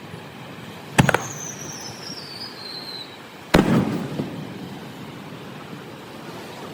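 Fireworks going off: a sharp double crack about a second in, followed by a high whistle sliding down in pitch for about two seconds, then a second bang with a rumbling tail about three and a half seconds in.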